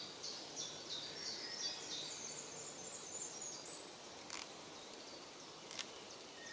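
A songbird singing a long, rapid series of short high notes that stops a little over halfway through, over faint woodland ambience. Two sharp clicks follow, about a second and a half apart.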